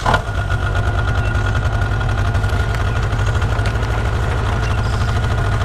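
Heavy engine idling steadily with a fast, even low throb, cutting in abruptly as the sound begins.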